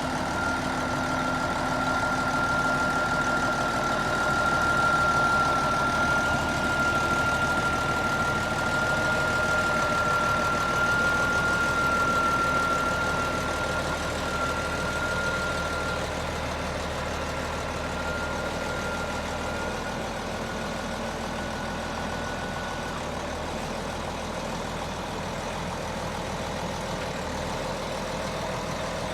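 Case David Brown 1370 tractor's four-cylinder diesel engine running steadily at idle. A thin, steady high-pitched whine sits over it and fades out near the end.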